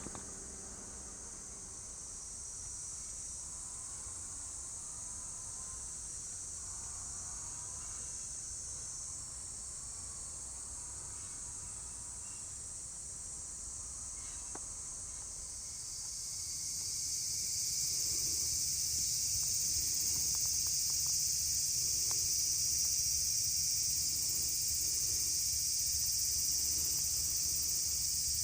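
Steady chorus of insects, a continuous high-pitched buzz that swells louder about halfway through.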